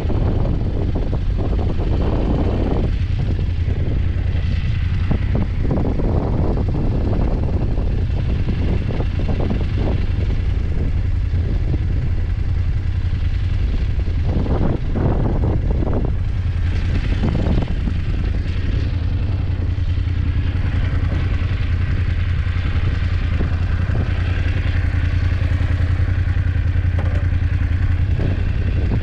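BMW F850GS parallel-twin motorcycle engine running steadily under way, with scattered clattering knocks, mostly in the first half.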